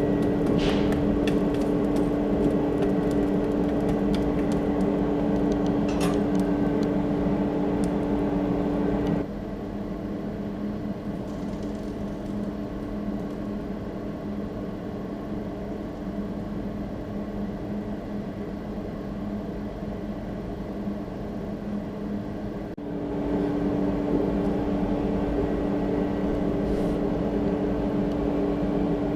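Coal forge blower running with a steady hum. It cuts off abruptly about nine seconds in, leaving a quieter background, and comes back on about two-thirds of the way through.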